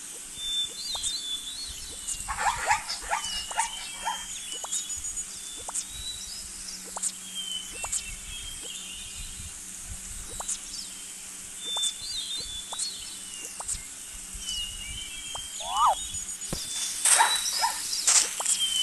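Wild birds chirping and whistling over a steady low background hum, with bursts of crackling calls a couple of seconds in and again near the end.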